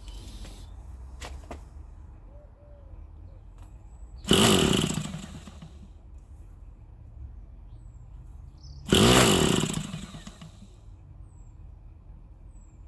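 Electric starter spinning over an Irvine 61 model glow engine in two short bursts of about a second each, the first about four seconds in and the second about nine seconds in, with the pitch rising then falling each time. The engine does not catch.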